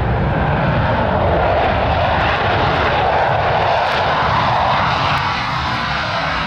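Airplane engine noise from an aircraft flying past, swelling through the middle and easing off near the end.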